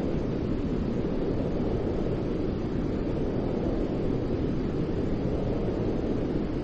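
Steady white noise for lulling a baby to sleep: a constant, unchanging rushing sound, deep and heavy at the low end.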